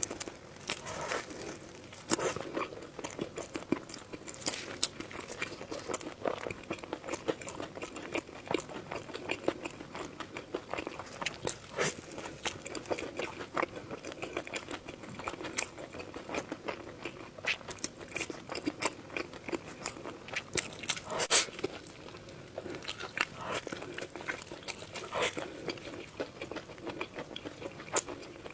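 Close-miked eating: a person biting and chewing food, with irregular crisp crunches and mouth clicks.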